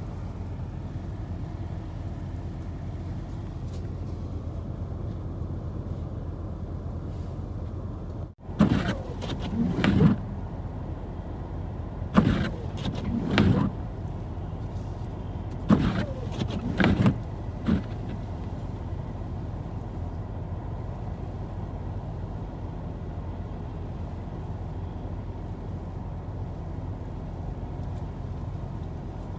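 Steady low rumble of a car driving, with several short, louder bursts of noise in the middle stretch.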